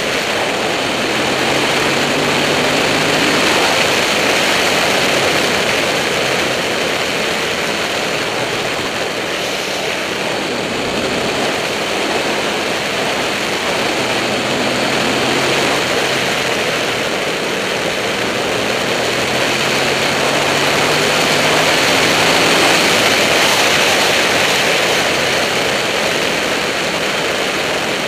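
Heavy wind noise rushing over a helmet-mounted camera at road speed, with the Buell 1125R's V-twin engine heard faintly underneath, its pitch slowly rising and falling with the throttle.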